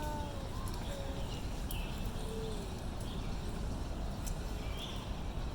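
Steady low outdoor background rumble, with a short high chirp repeating about every second and a half.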